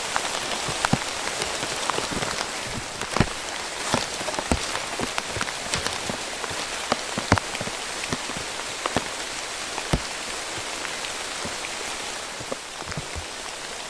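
Heavy rain falling steadily, with frequent sharp, irregular taps of large drops striking a surface close by.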